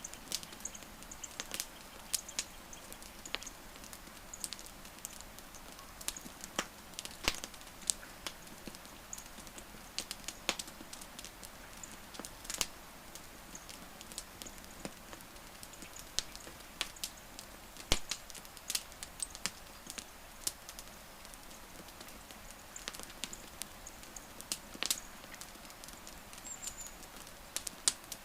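Wood campfire crackling: irregular sharp pops and snaps of varying loudness over a soft hiss.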